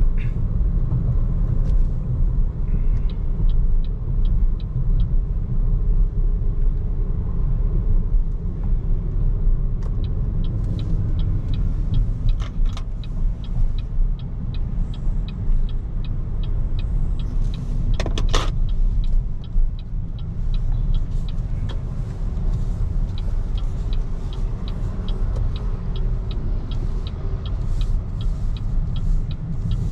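Steady low rumble of a BYD Seagull electric car driving on city roads, mostly tyre and road noise, with no engine note. A light, regular ticking about twice a second runs through most of it, and a short, louder noise comes about eighteen seconds in.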